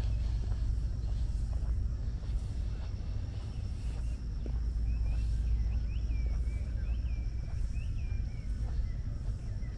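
Outdoor ambience with a steady low rumble. About halfway through, a small bird gives a quick run of short, high chirps for a few seconds.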